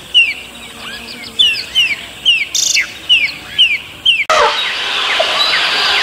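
A bird calling repeatedly with short chirps that each sweep down in pitch, about two a second. A little over four seconds in the sound cuts abruptly to a louder, steady rushing noise with faint bird calls in it.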